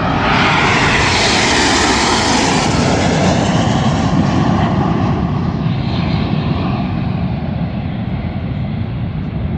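Snowbirds' Canadair CT-114 Tutor jets flying past in formation: a loud jet rush that swells at the start, its pitch sliding down as they pass, then slowly fading.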